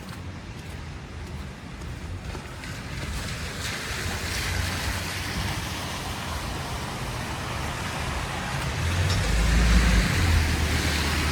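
Street traffic on a snowy, slushy road: a vehicle's tyre hiss and engine rumble swelling slowly as it approaches, loudest near the end.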